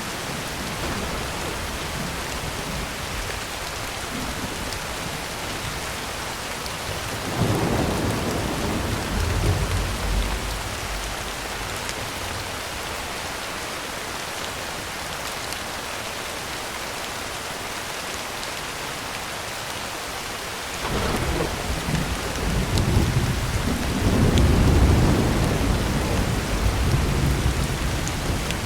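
Heavy rain falling steadily on a tin roof, with thunder rumbling twice: once about seven seconds in, and again from about twenty-one seconds on, the second longer and louder.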